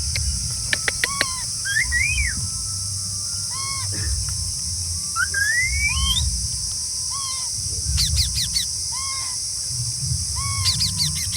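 Green parrots giving short whistled calls: rising upward glides and short arched notes that recur every second or so, with quick clusters of rapid notes about eight seconds in and near the end.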